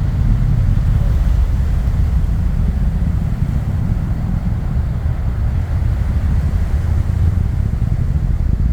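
Falcon 9 rocket's launch rumble reaching the viewers well after liftoff: a steady, deep, continuous rumble with no breaks.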